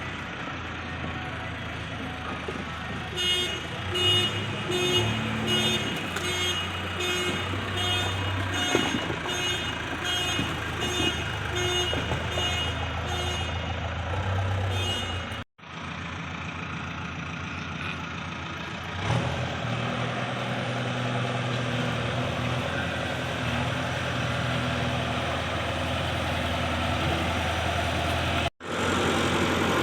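Diesel earthmoving machinery running steadily, with a repeating beep of about one to two pulses a second from a few seconds in until about halfway. The sound cuts out abruptly twice for a moment.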